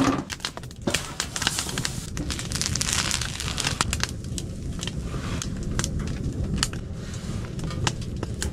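Frequent sharp crackles and pops over a steady hiss, from food heating on a wood stove.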